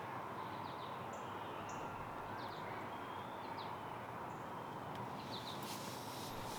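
Birds giving short, high chirps several times over a steady outdoor background hum.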